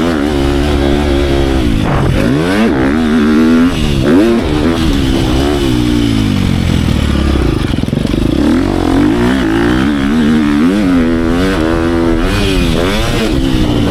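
Motocross dirt bike engine being ridden hard, its pitch rising and falling again and again as the throttle is opened and chopped and the gears change.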